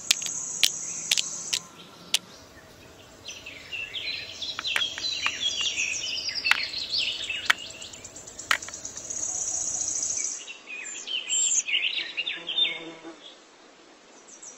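Birds chirping and twittering in two spells, with a steady high insect buzz at the start and again about nine seconds in. Sharp clicks of small hard objects being set down come through, mostly in the first two seconds.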